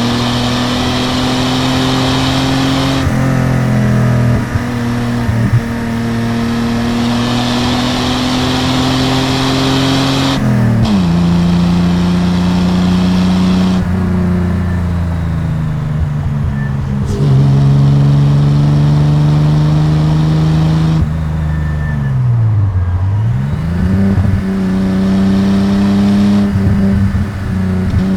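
Datsun 240Z's 2.8-litre L28 inline-six running under load through its exhaust on the move, holding a steady pitch. About ten seconds in the engine note drops sharply, as at a gear change, then holds again. About two-thirds of the way through it dips and climbs back up.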